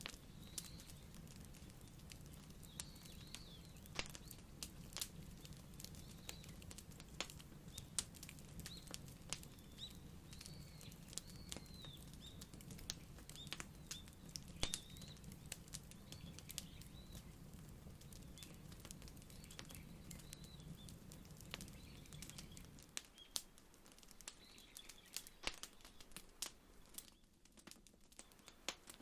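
Wood fire crackling faintly, with irregular sharp pops and snaps. Faint high chirps come and go through the first half, and a low background hum stops a few seconds before the end.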